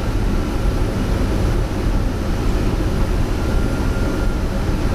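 Steady rush of air and engine noise inside a Boeing 747-200 flight deck on short final, just below 200 ft, heavy in the low end with a faint steady whine above it.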